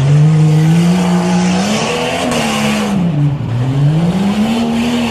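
Tough truck's engine revving hard under full throttle, its pitch climbing, dropping sharply about three and a half seconds in as the throttle comes off, then climbing again.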